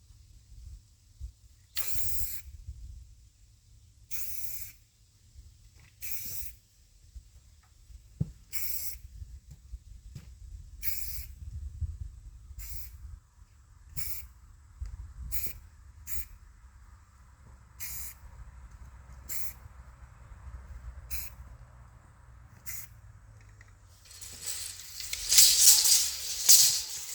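Aerosol spray-paint can hissing in about a dozen short squirts, a second or two apart, as cut marks are sprayed onto logs. Near the end comes a longer, louder burst.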